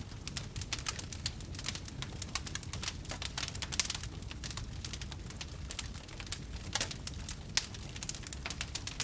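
Wood campfire burning, with a continuous irregular crackle of small snaps and pops, a few sharper ones standing out, over a low rumble of flame.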